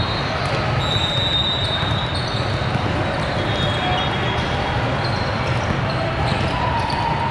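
Steady din of a busy indoor volleyball hall: balls being hit and bouncing, sneakers squeaking on the court floor, and voices of players and spectators blending together.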